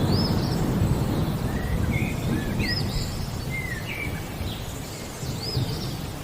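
Songbirds chirping in short, arching whistled notes, repeated several times, over a low rumble of thunder that eases off over the first few seconds.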